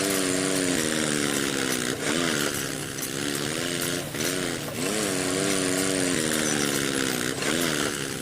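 Mini tractor's small motor running steadily, its pitch dipping and recovering every second or two as the load changes.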